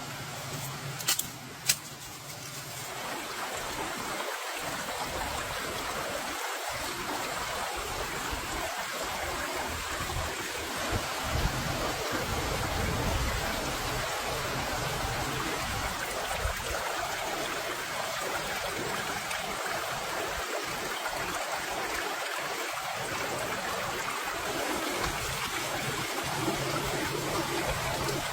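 Steady rushing noise of water, rising in over the first few seconds and then holding even, after two sharp clicks about a second in.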